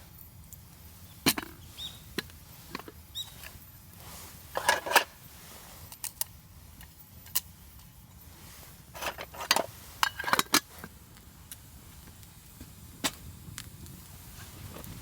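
Wood campfire crackling: irregular sharp pops and snaps, with two quick flurries of them about a third and two-thirds of the way through, over a faint steady hiss.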